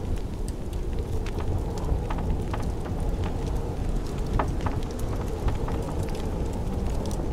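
Blizzard wind blowing as a steady low rumble, with a wood fire crackling over it in scattered sharp pops, one stronger pop about four seconds in.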